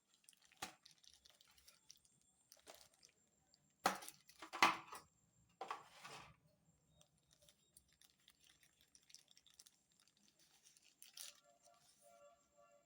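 Plastic packaging being handled and torn open to get at a smartwatch: a few short rustles and rips, the loudest about four to five seconds in.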